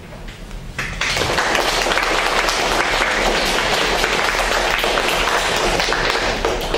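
Audience applauding. A few scattered claps come first, then full applause begins about a second in.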